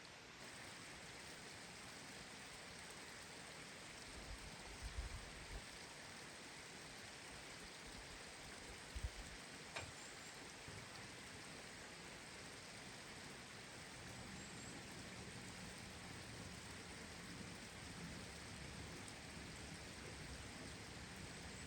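A steady, faint, rain-like hiss, with a few soft low thumps about four to five seconds in and again near nine seconds.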